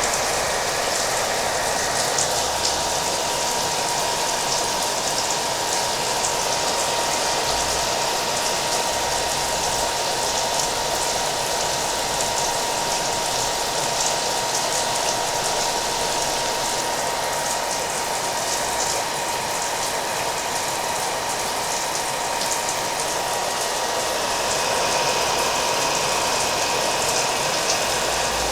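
A hair dryer running steadily with a constant whine, mixed with the steady patter of rain.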